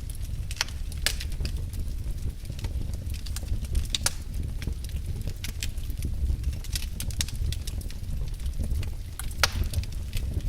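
Wood fire burning in a fireplace, crackling with irregular sharp pops over a low steady rumble of flames.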